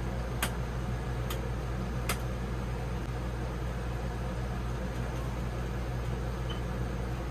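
Steady low machine hum, with three sharp clicks in the first couple of seconds.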